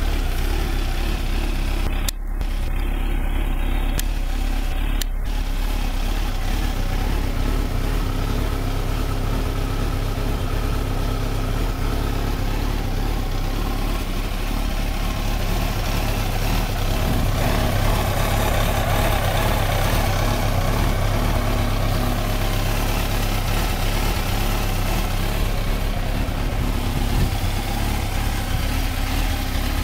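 Suzuki GSX-R1000 K4's inline-four engine idling steadily.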